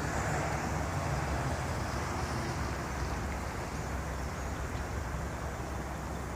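Strong wind blowing and buffeting the microphone, swelling in a gust over the first couple of seconds and then easing slightly.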